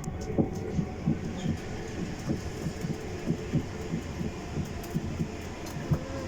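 Inside a moving electric passenger train: the steady low rumble of the train running, with frequent short low knocks from the wheels and track, two or three a second.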